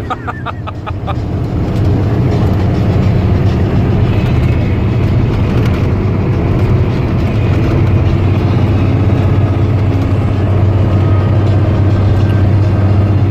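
Grain truck's diesel engine running with road noise, heard from inside the cab: a steady low drone that grows louder over the first couple of seconds and then holds. A few sharp ticks come in the first second.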